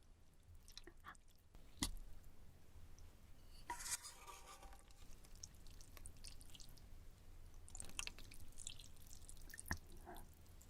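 Faint close-up eating sounds of someone eating ramen: scattered small wet mouth clicks, with a short wet slurping sound about four seconds in.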